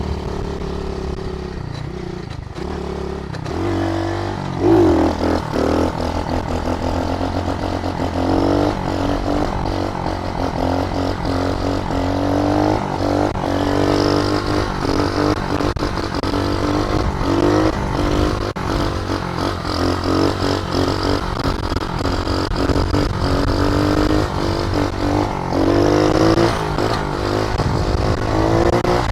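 SSR110 pit bike's small single-cylinder four-stroke engine being ridden, revving up and easing off again and again as the throttle opens and closes through the gears.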